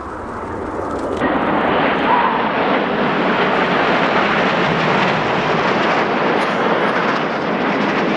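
Jet engines of the Red Arrows formation of BAE Hawk T1 trainers passing along the display line, growing louder over the first second or so and then holding at a steady loud rushing noise.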